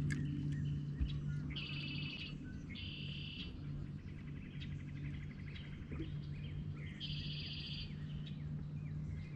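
Birds singing: several short, high, buzzy trilled songs a few seconds apart, over a steady low hum.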